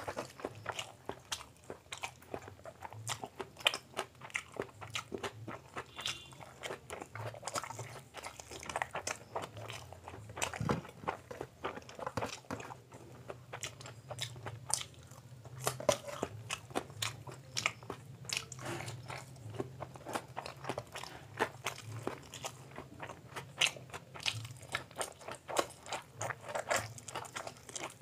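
Close-miked chewing and biting of hand-fed mouthfuls of egg omelette: many short wet clicks and crunchy bites. A steady low hum runs underneath.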